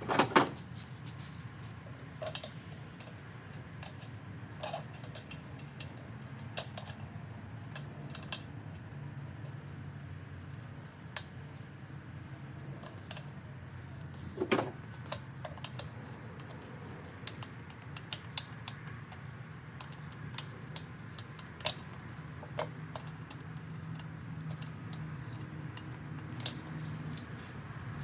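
Hand tools and metal engine parts clicking and clinking during a Honda F22C engine teardown, with a louder knock right at the start and another about halfway through, over a steady low hum.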